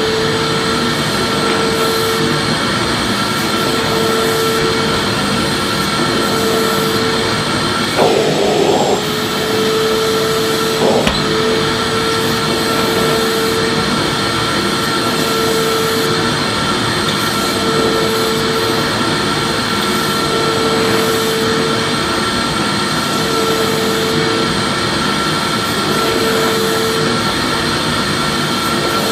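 Vacuum cleaner running steadily: a continuous motor whine over a rush of air. There is a brief bump about eight seconds in and a short knock about three seconds later.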